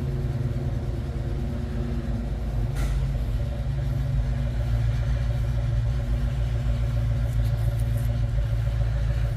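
1994 Mustang GT's 5.0 V8 running steadily at low revs through long-tube headers, an X-pipe and Black Widow Widowmaker 10 mufflers, a deep, steady exhaust rumble. A short sharp noise cuts in about three seconds in.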